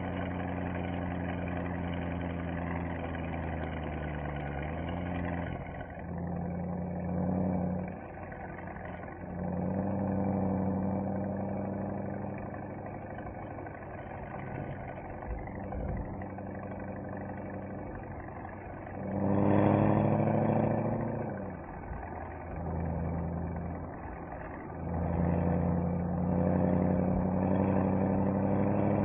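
Mercedes-AMG SL63's V8 engine and exhaust under way, cruising with the engine note shifting as the throttle changes. A loud surge with rising pitch comes about two-thirds through, and the engine pulls harder again near the end.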